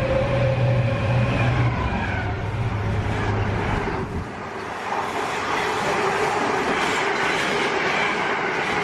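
Electric train passing through the station. A steady low hum and a tone fade about four seconds in, then rushing wheel-on-rail noise builds.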